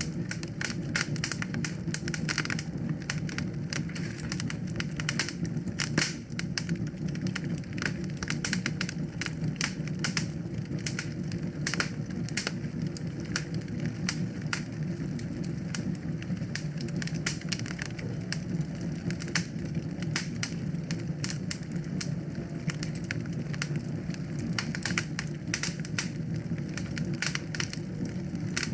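Fireplace fire crackling: dense, irregular sharp pops and snaps over a steady low rumble.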